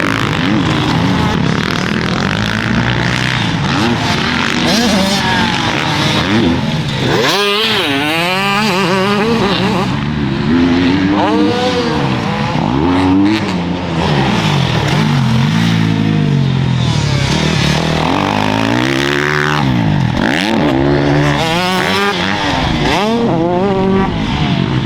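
Several dirt bike engines revving hard and passing, their pitch rising and falling again and again as the bikes accelerate, shift and go by.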